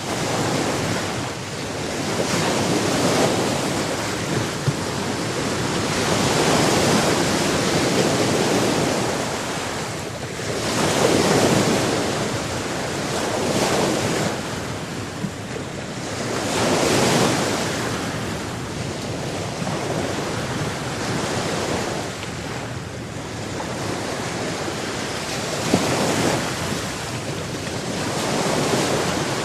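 Ocean waves breaking and washing on a shore, a steady rush that swells and eases every few seconds, with wind on the microphone.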